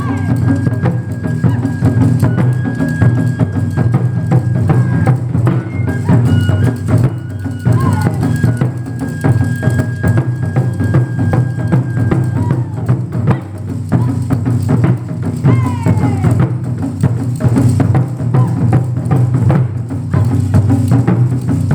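Taiko drum ensemble playing a fast, dense rhythm of deep drum strokes. A thin high held tone sounds over the drumming through the first half.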